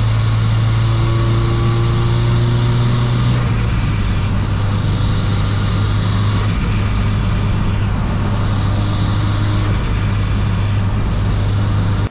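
Mazdaspeed 3's turbocharged 2.3-litre four-cylinder running at highway speed under load, a steady engine drone with road noise that steps slightly in pitch a few times, as at gear changes. There are two brief hissing rushes, about five and nine seconds in.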